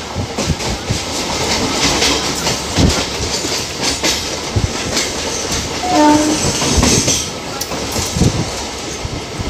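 Electric multiple-unit suburban train heard from inside a carriage at an open window: steady running noise with wheels clacking over rail joints as it passes another EMU on the next track. A short pitched tone sounds briefly about six seconds in.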